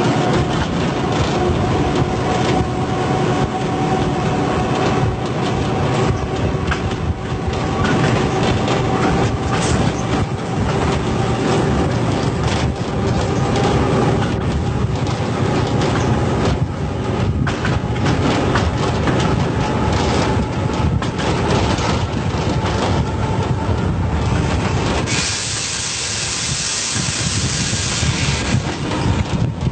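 Commuter train running on the rails with wheel clatter and a steady hum. A loud hiss starts near the end.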